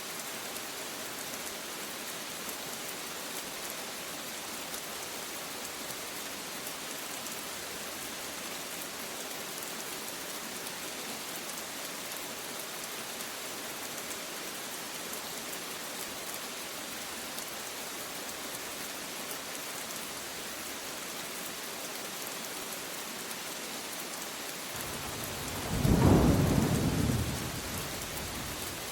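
Steady rain falling with a constant hiss; near the end a single loud clap of thunder rumbles in, peaks, and dies away over a few seconds.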